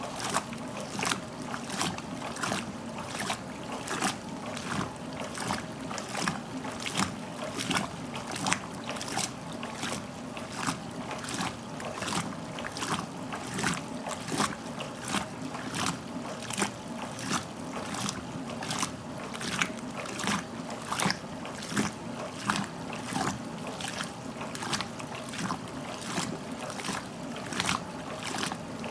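1969 Westinghouse washing machine agitating its load: water sloshing and splashing in an even rhythm of about one and a half splashes a second as the ramp action agitator throws the water around, over the steady hum of the motor.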